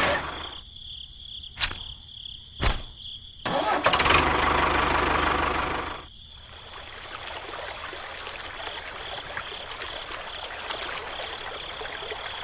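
A small motor running, with two sharp clicks in the first three seconds. The sound changes abruptly a few times, loudest between about three and a half and six seconds in.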